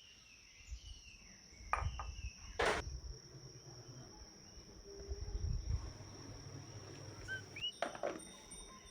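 A steady high-pitched insect drone, like crickets, with a few sharp knocks and low thumps over it and two short chirps near the end.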